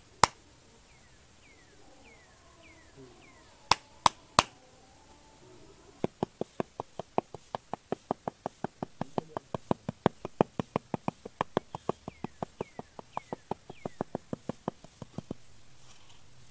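A small hand trowel tapping and patting a bed of sand: a few single taps at first, then from about six seconds in a quick run of crisp taps, about four a second, that stops shortly before the end. Faint high falling chirps sound twice in the background.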